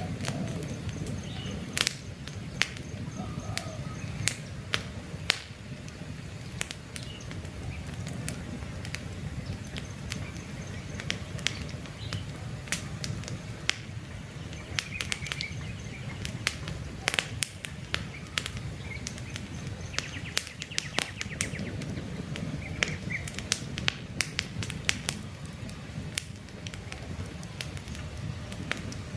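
Wood campfire crackling, with frequent sharp pops and snaps over a steady low rumble of flame. Faint bird chirps are heard now and then.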